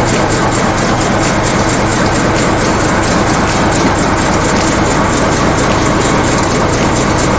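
Screw-forming (cold-heading) machine running at production speed: a loud, fast, even run of repeated mechanical strokes.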